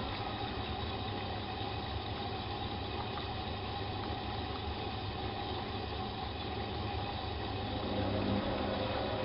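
Bosch WFK 2431 washing machine running with a steady motor hum and a few held tones, getting a little louder near the end.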